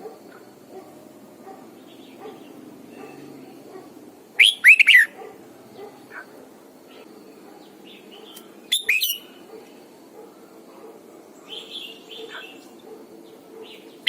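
Red-whiskered bulbul singing: two short bursts of loud, quick whistled notes about four seconds apart, with fainter chirps near the end, over a steady low background hum.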